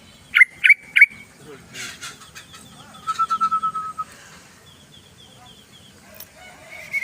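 Sooty-headed bulbul singing: three loud, sharp whistled notes in quick succession, then a fast even trill about three seconds in, followed by a quicker, higher run of notes.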